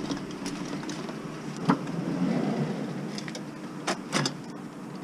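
A vehicle idling with a steady low hum, broken by a sharp knock about two seconds in and two quick knocks near the end.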